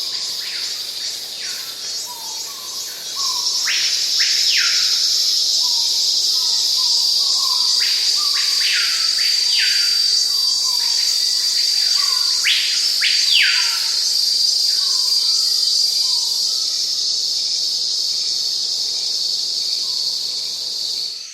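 A steady high-pitched chorus of insects, getting louder about three seconds in. Over it, a bird gives short calls that drop sharply in pitch, in loose clusters.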